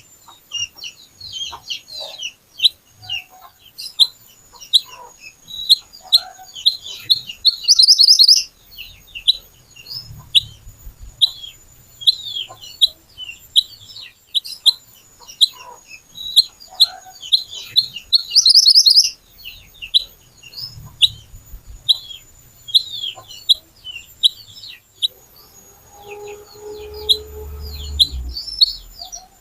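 A kuniran (mantenan) songbird singing a fast, unbroken string of sharp, high chirps. Loud rising trilled phrases come about 8 and 18 seconds in.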